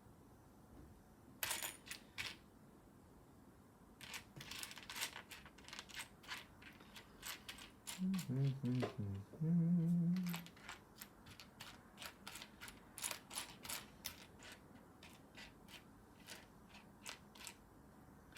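Small plastic Lego pieces clicking and rattling as a hand sifts through a pile of them, with a brief wordless hum about halfway through.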